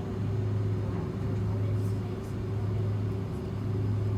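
Steady cabin hum inside an Airbus A330-300 airliner after landing: a low drone with a thin steady tone above it over a wash of air noise.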